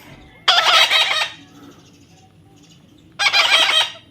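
A pet parrot giving two loud, harsh squawks, one about half a second in and another about three seconds in.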